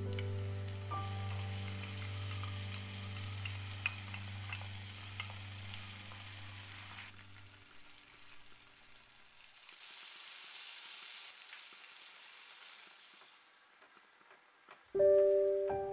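Lentil dal sizzling in a hot pan as boiled red lentils go into the fried onion-tomato masala, a steady hiss with a few sharp spits and crackles, under background music that fades out about halfway through. A softer hiss follows as hot water is poured in, and music starts again near the end.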